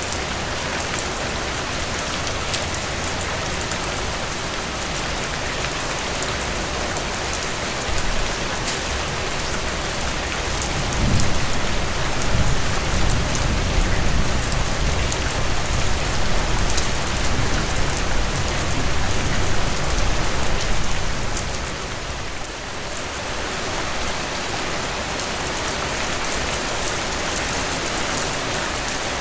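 Steady rainfall, with individual drops ticking over a dense hiss. About eleven seconds in, a low rumble swells underneath, then fades away a little after twenty seconds.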